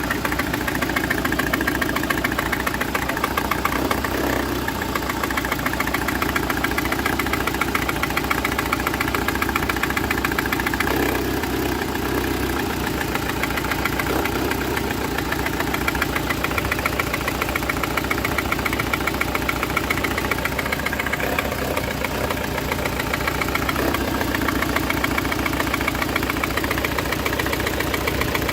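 Citroën C4 1.6i petrol engine idling on three of its four cylinders: one ignition coil has failed, so one cylinder misfires. It runs steadily with a fast pulsing beat.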